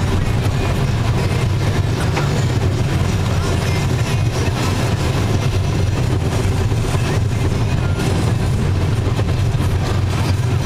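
A moving road vehicle's steady low engine and road rumble, holding an even level while driving through traffic.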